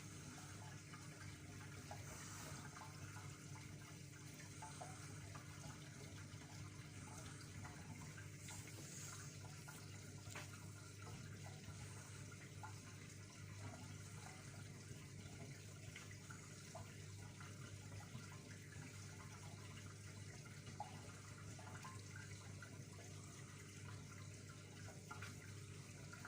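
Front-loading washing machine moving water between wash stages, heard faintly: water running inside the machine over a steady low electrical hum. A higher tone in the hum fades out several seconds in.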